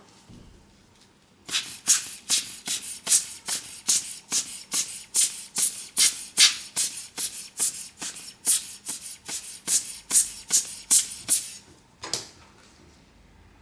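Quick, evenly repeated scraping strokes of a hand tool working over the iPhone 13 Pro Max, about two and a half strokes a second. They start about a second and a half in and stop shortly before the end.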